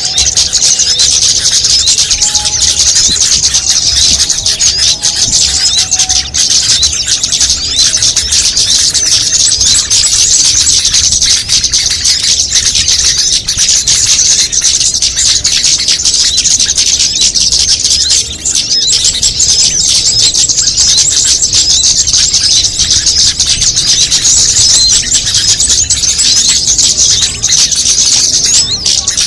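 Dense, continuous chorus of many small songbirds' high-pitched chirps and chatter layered together: a mixed bird-lure call recording of the kind played to draw small birds in.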